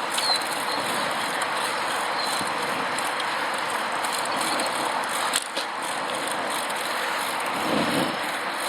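Steady rushing road noise of a recumbent bicycle being ridden along a paved road, with a brief knock about five and a half seconds in.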